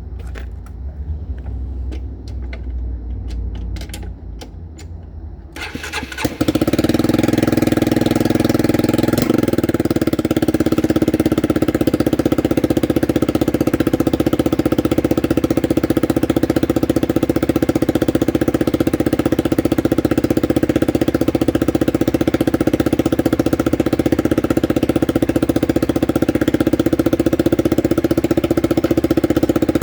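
Honda CBR motorcycle engine starting about six seconds in, after a low hum and a few clicks, then idling steadily; the running engine carries an exhaust leak.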